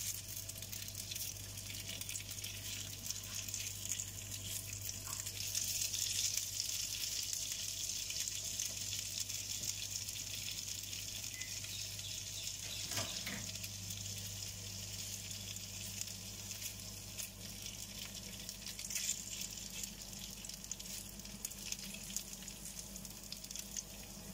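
Spiral-cut hot dogs on wooden skewers sizzling steadily in shallow oil in a nonstick frying pan, with light crackling and the occasional scrape of a wooden spatula turning them.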